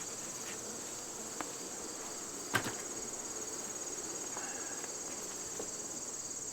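Steady high-pitched trill of late-summer insects, unbroken throughout, with a single sharp click about two and a half seconds in.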